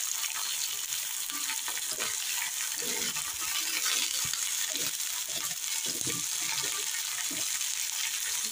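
Shredded cabbage and mixed vegetables frying in hot oil in a steel kadai: a steady sizzle.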